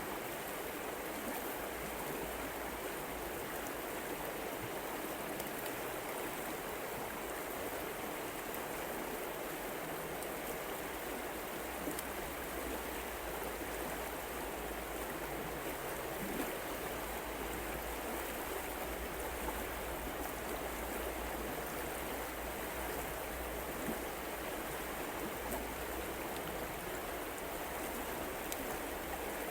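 Flowing water rushing steadily, with no swells or breaks.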